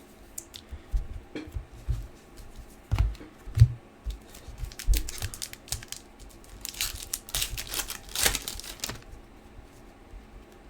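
Trading card packs being handled: scattered light clicks and taps of cards and soft thumps on the table. In the second half comes a couple of seconds of a pack wrapper crinkling and tearing.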